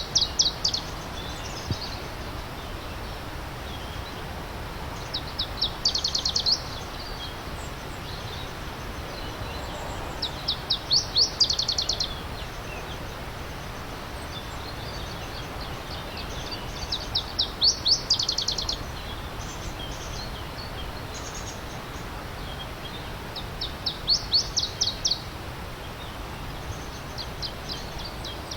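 A songbird repeats the same short song about every six seconds: a quick run of high notes lasting about a second and a half. Underneath is the steady rushing of a stream.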